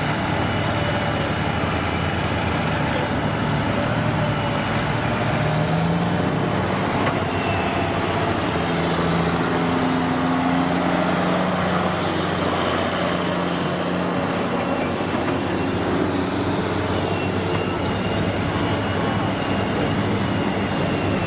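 Engine of a heavy truck or construction machine running steadily. Its pitch rises about six seconds in and holds higher for several seconds before settling back.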